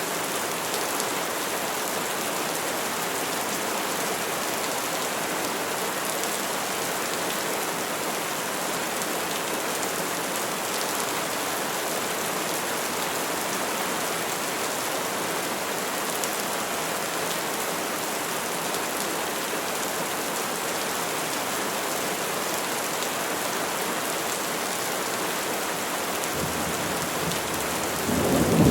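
Steady rain falling on trees, an even hiss. Near the end a low rumble of thunder begins and grows louder.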